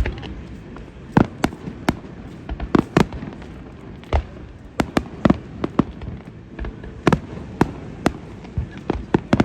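Fireworks display: a rapid, irregular string of sharp bangs and booms, often two or three close together, about twenty in all.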